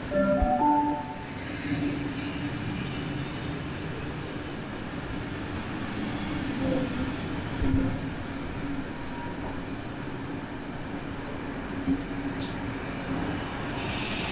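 Heritage passenger carriages rolling past: a steady rumble of steel wheels on rail with a low running drone and a few light knocks. A short loud pitched sound comes about half a second in.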